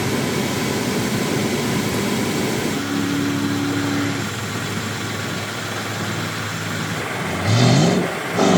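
A 4x4's engine running under a steady rush of noise. A short rising tone comes near the end.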